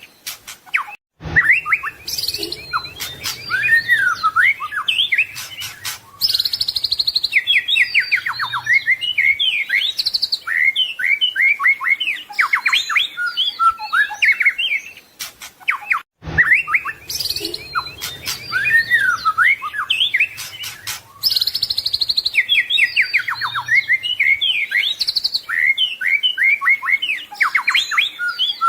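White-rumped shama singing a long, varied song of rapid whistles, trills and harsh rattling notes, full of mimicked phrases. The song cuts out briefly about a second in and again about 16 seconds in, and the same stretch of song plays again after each cut.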